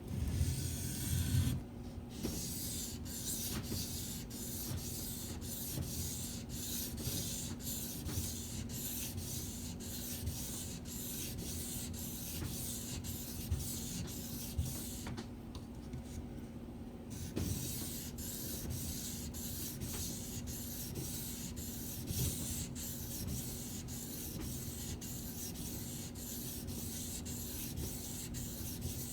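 Steel knife blade being stroked by hand across a Shapton Pro whetstone: a rhythmic scraping rub of about two strokes a second, with a short break around the middle.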